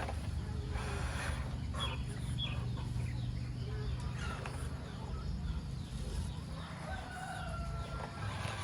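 Chickens clucking, with a rooster crowing near the end, over a steady low hum.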